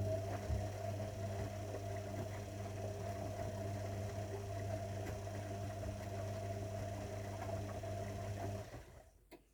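Zanussi washing machine running mid-cycle: a steady electric hum that stops about a second before the end, followed by a single click.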